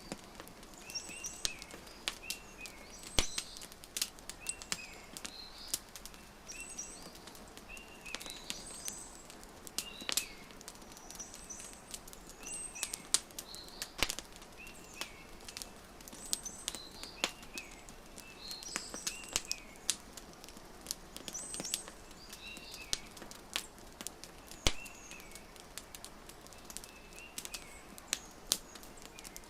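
Wood fire crackling with frequent sharp pops, mixed with small birds chirping short repeated phrases every second or two.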